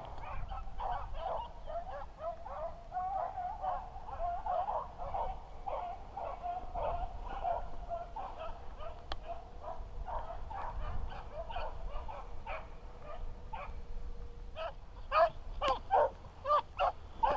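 A pack of beagles baying on a rabbit's trail: many short, overlapping cries that run on without a break, with a few louder, sharper barks near the end. The dogs are in full cry, running the scent of a rabbit.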